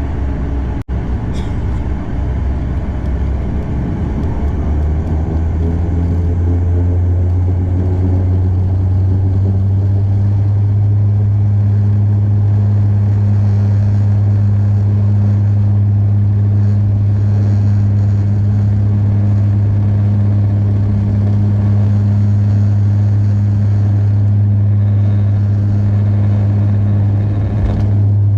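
The twin turboprop engines and six-blade propellers of a Bombardier DHC8-Q400, heard inside the cabin. Over the first several seconds the drone climbs in pitch and loudness as power comes up, typical of power being set for the takeoff roll. It then settles into a steady low propeller drone.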